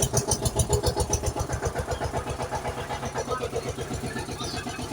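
Engine running with a fast, steady chugging beat.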